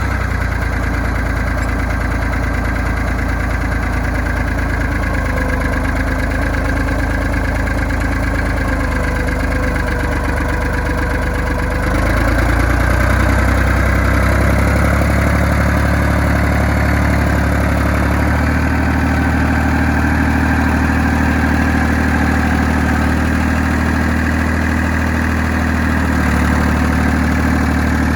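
John Deere 350B crawler dozer's engine running steadily. Its note shifts and gets louder about twelve seconds in, and changes again around eighteen and twenty-six seconds.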